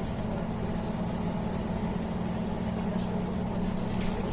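MAN A21 city bus diesel engine running steadily with road noise, heard from inside the bus.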